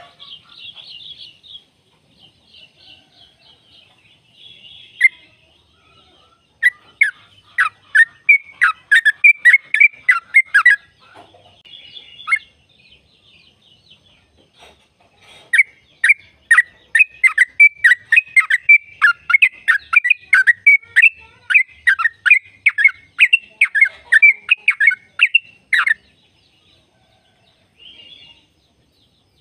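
Yellow-vented bulbul singing: a few faint chirps, then two long runs of rapid, bubbling notes, about four or five a second, the first lasting a few seconds and the second about ten seconds. This is the long rapid-fire 'ropel' song used to set caged bulbuls singing.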